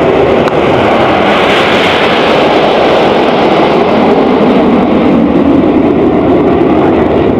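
Formation of BAE Hawk T1 jet trainers flying past with a loud, steady jet roar, brightest about two seconds in and then deepening as the formation moves on.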